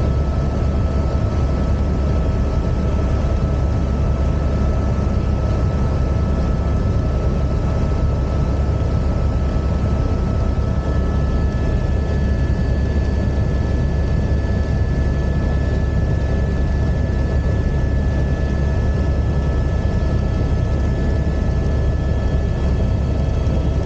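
Helicopter in flight: a steady, loud drone of engine and rotor noise with a few steady high whining tones, one of which grows stronger about halfway through.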